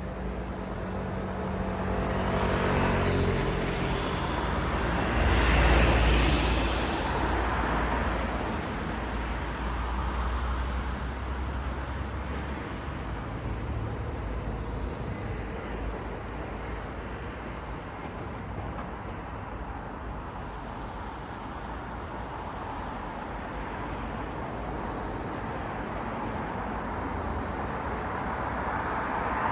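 City road traffic: cars passing close by, the loudest about six seconds in, over a steady wash of tyre and engine noise. A low engine hum fades under the first pass in the first few seconds.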